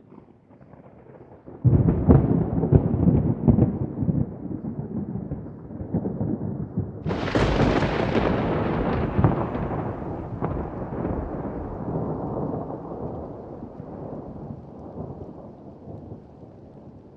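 Thunder: a sudden loud clap about two seconds in with crackling rumbles. A second, brighter crash follows about seven seconds in, then rolls on and slowly fades.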